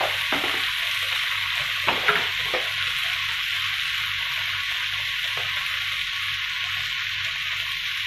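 Cauliflower and onion pepper fry sizzling steadily in a non-stick pan, dry-frying after its cooking water has boiled off. A few light clicks come in the first couple of seconds.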